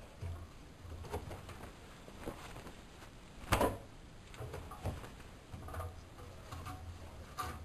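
Siemens Siwamat 6143 washing machine running, with a low hum that comes and goes and irregular knocks and clicks, one louder thump about halfway through.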